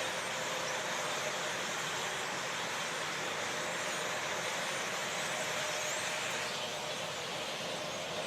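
A giant flock of birds making a steady rushing noise that sounds like wind or rain, with faint high chirps.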